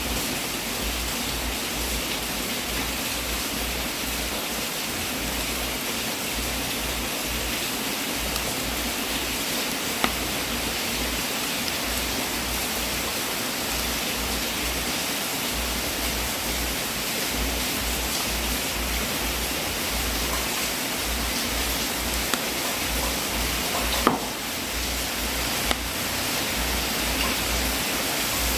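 Wood fire in a fireplace burning with a steady rushing hiss and a few sharp pops, the loudest about 24 seconds in.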